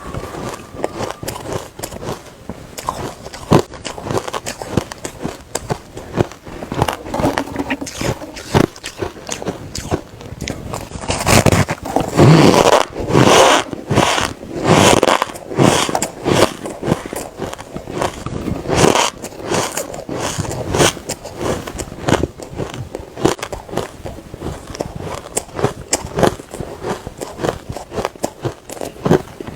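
Close-miked chewing of refrozen soft ice: dense, irregular, sandy crunching. The crunches come louder and thicker from about 11 to 17 seconds in.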